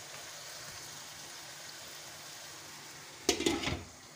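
Chicken mince sizzling steadily in its own juices in a wok. About three seconds in, a glass pan lid is set on with a short clatter.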